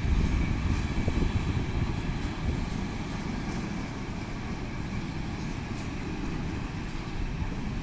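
A train rolling past with a steady low rumble and faint light ticks about once a second, easing slightly in the middle and building again near the end.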